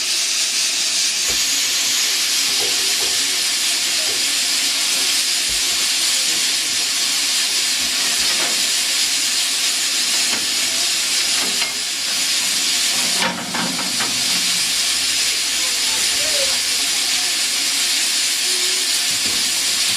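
Steam locomotive hissing steadily as it lets off steam, with a brief break in the hiss about two-thirds of the way through.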